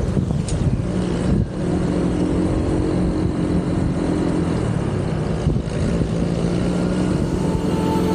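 Motorcycle engine running steadily on the move, with two brief drops in level: one about a second and a half in, the other past the middle.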